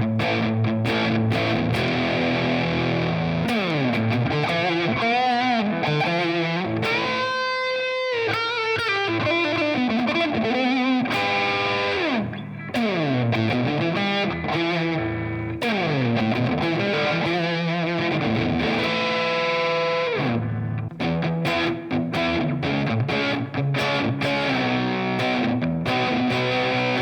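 Electric guitar, a 1989 Epiphone Les Paul with Seymour Duncan Pearly Gates humbuckers, played through a Fender Mustang GT100 amp with a distorted tone: riffs and lead lines with quick rising and falling runs and a few held, wavering notes.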